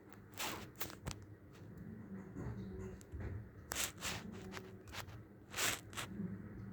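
A few short rustling or scuffing noises, about half a second in, just under four seconds in and near six seconds in, over a faint low background murmur.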